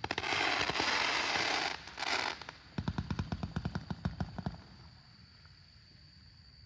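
The 'Blizzard of Oz' fireworks cake firing. A loud hissing rush comes first, then a short second burst, then a quick string of sharp reports, several a second, which dies away after about four and a half seconds.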